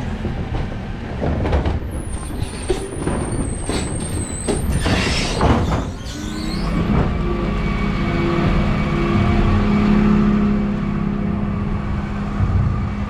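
Dennis Elite 6 refuse truck heard from the cab. There are clunks and a high squeal in the first half. From about six seconds in, the engine settles into a steady hum that rises slightly.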